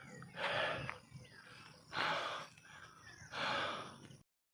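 A person breathing hard close to the microphone: three heavy breaths about a second and a half apart, the panting of a cyclist after a steep climb.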